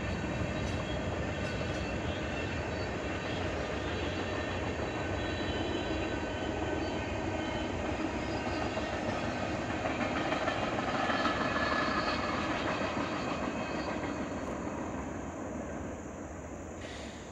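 Loaded-sounding freight cars (open-top hoppers and gondolas) rolling past on the rails: a steady rumble and clatter of steel wheels. It fades over the last few seconds as the end of the train goes by.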